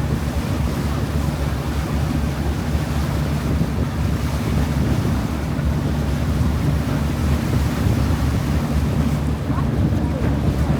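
Steady low rumble of wind buffeting the microphone on a moving river cruise boat, with the boat's engine and water noise beneath it.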